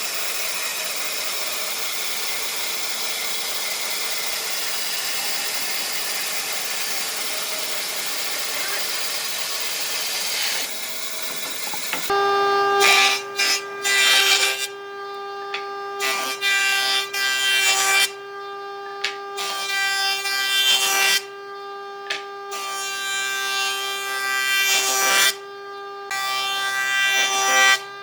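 Handheld electric power tool working wood. For about twelve seconds it cuts continuously with a dense rasping noise. Then the motor runs with a steady whine, broken by repeated short loud passes into the wood.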